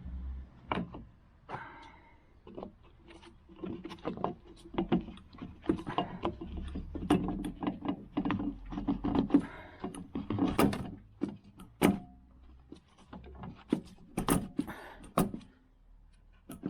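Irregular clicks, taps and knocks of a new diesel fuel filter and its plastic housing being handled and fitted into place.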